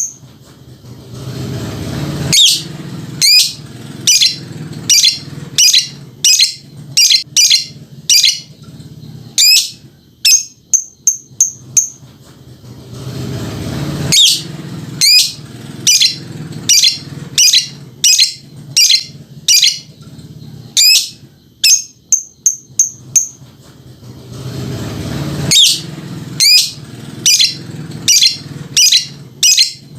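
Lovebird singing its long, continuous 'ngekek' chatter: sharp high chirps, one or two a second, broken by short fast runs of even, piping notes. A low rumble swells underneath and cuts off suddenly three times.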